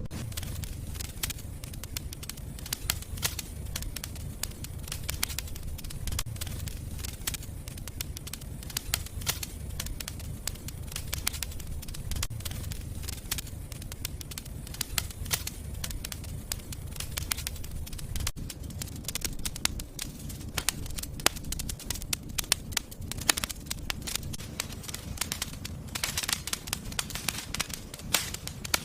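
Wood fire crackling in a fireplace, with frequent sharp pops and snaps over a low steady rumble of the flames; the pops come thicker and louder near the end.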